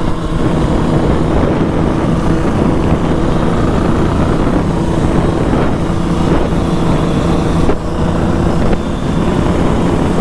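Dirt bike engine running steadily at low riding speed, a constant hum with a brief dip in level near the end.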